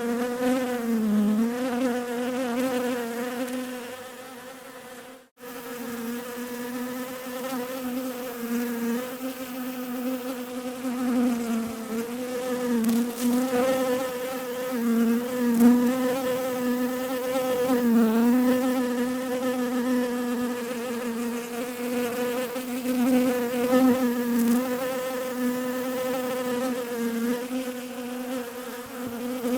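Bees buzzing in a steady hum that wavers slightly in pitch. It fades and cuts out for a moment about five seconds in, then resumes.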